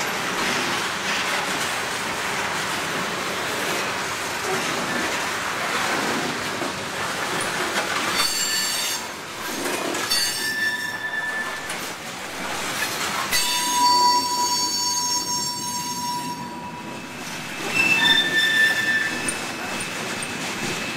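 Railroad cars rolling past, a steady rush and rumble of wheels on rail. High-pitched wheel squeals break in several times, the longest lasting about three seconds just past the middle.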